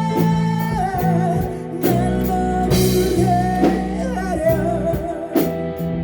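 Rock band playing live in a rehearsal room, with vocals over electric guitar, bass and drums. The singer holds a long note, then moves into a wavering melodic line about a second in, while the drums keep a regular beat.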